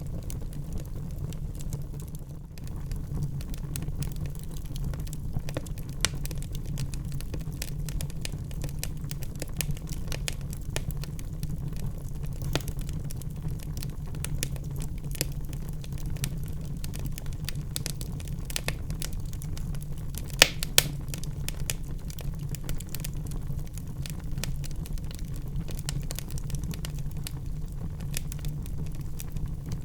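Wood fire burning in a fireplace: a steady low rumble of flames with scattered sharp crackles and pops, two louder pops about two-thirds of the way through.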